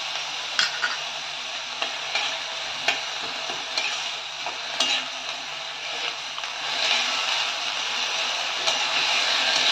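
Chopped onions and garlic paste frying in mustard oil in a steel wok with a steady sizzle. A steel spatula scrapes and clinks against the pan now and then as they are stirred. The sizzle grows louder about two-thirds of the way in.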